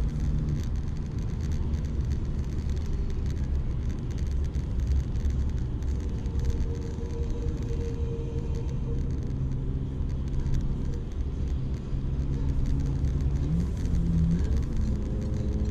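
Car driving along: steady engine hum over low road rumble. The engine note rises quickly about thirteen and a half seconds in and holds at the higher pitch.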